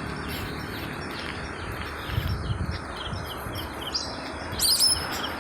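Small birds chirping repeatedly over a steady low outdoor background noise, with a louder, gliding bird call about four and a half seconds in.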